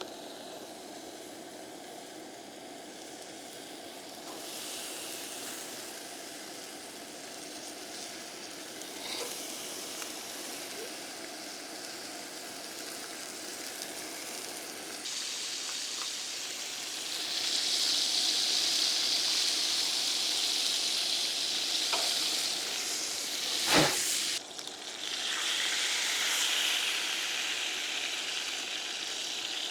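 Bacon sizzling and frying in a pan, growing louder about halfway through, with one sharp knock a few seconds before the end.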